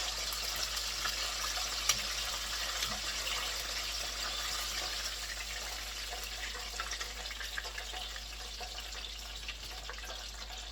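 Flour-coated chicken pieces frying in hot oil: a steady sizzling hiss with small crackles and one sharp click about two seconds in.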